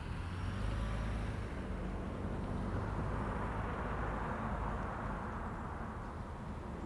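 Car passing by: a low engine and tyre rumble swells about half a second in, then a broad tyre hiss builds and slowly fades over the last few seconds.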